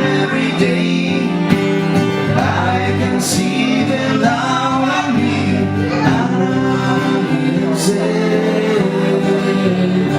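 A live song: a singing voice over guitar accompaniment, playing steadily throughout.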